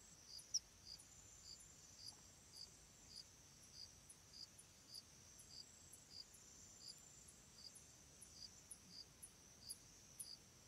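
Faint night insects: crickets chirping in a steady, evenly spaced rhythm over a thin high trill, with one brief click about half a second in.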